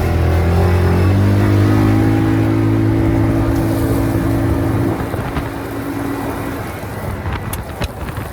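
Vehicle engine running as it drives off, stepping up in pitch about a second in, then easing and fading away after about five seconds; a few sharp clicks near the end.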